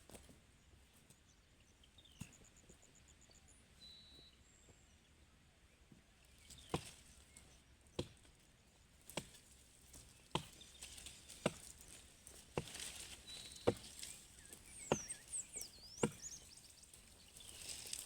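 Blows of a hand-held blade chopping into wood, steady strokes a little over a second apart starting about a third of the way in. Birds chirp faintly in the background.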